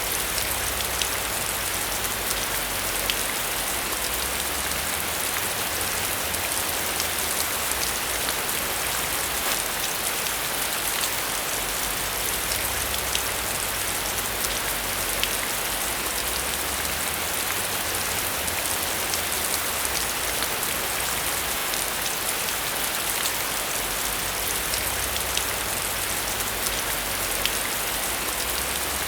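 Steady rain falling on a surface, thick with tiny drop ticks, over a low rumble that swells and fades.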